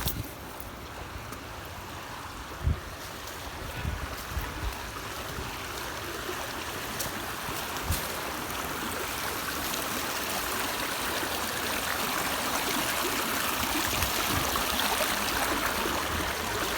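Running water rushing steadily, growing slowly louder, with a couple of dull thumps.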